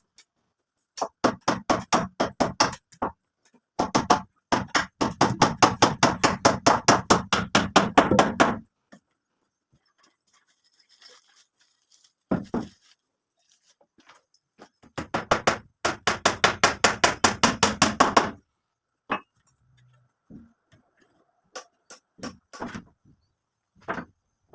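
Hammering in fast runs of sharp blows, about five or six a second, with pauses between runs and a few single knocks near the end.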